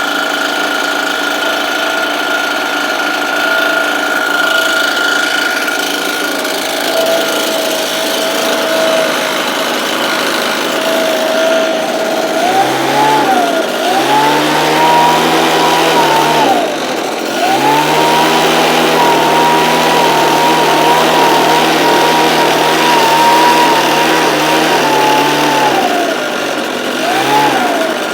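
Engine-driven blower idling steadily, then throttled up about halfway through: held at high revs for a couple of seconds, dropped back briefly, then held at full speed for about eight seconds before falling back to idle, with one short rev near the end.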